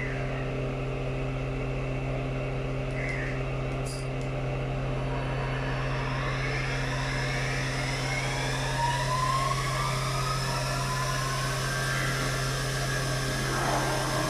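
CNC machine running with a steady low hum. From about six seconds in, whining tones rise slowly in pitch for several seconds.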